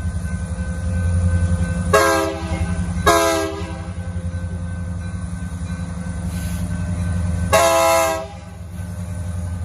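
Freight train rumbling slowly past with a steady, pulsing low rumble, while a locomotive air horn sounds three short chord blasts: two close together about two seconds in, and a third a few seconds later.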